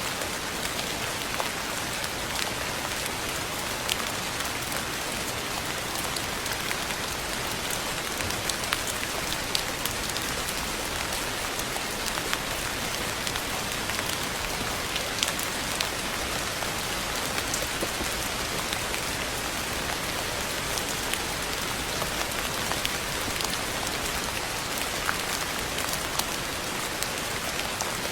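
Steady rain falling: an even, dense hiss with many scattered sharper drop ticks.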